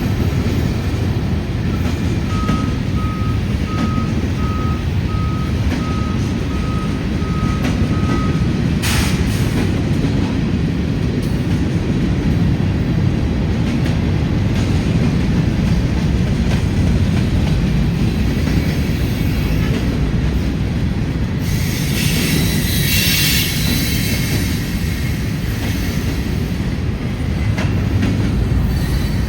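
Freight train rolling past with a steady low rumble of wheels on rail, and a high wheel squeal about three quarters of the way through. Early on, a reversing alarm beeps about ten times at an even pace for some six seconds.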